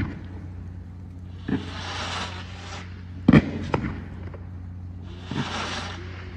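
Aerial fireworks bursting overhead. There is a smaller bang about a second and a half in, a sharp loud bang past three seconds with a second one just after it, and another bang past five seconds. Stretches of crackling follow the bursts, and a steady low hum runs underneath.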